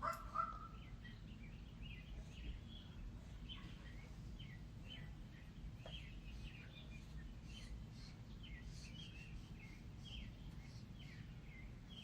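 Outdoor birdsong: many short chirps and twittering phrases from small birds, scattered throughout, over a faint steady low rumble. A brief louder call sounds right at the start.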